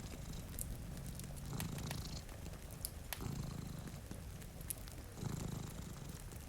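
Domestic cat purring close up, the purr swelling and fading with each breath about every two seconds. Sharp pops and crackles from a wood fire are scattered over it.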